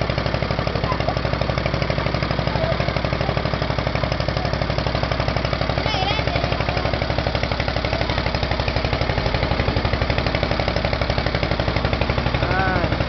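Motorboat engine running steadily with a fast, even chugging pulse.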